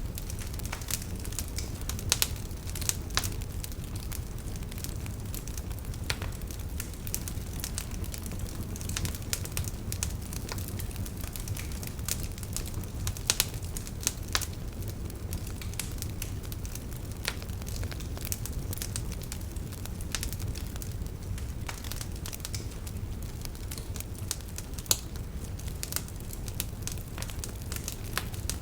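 Wood fire crackling and popping steadily over a low rumble, with a handful of sharper, louder pops scattered through.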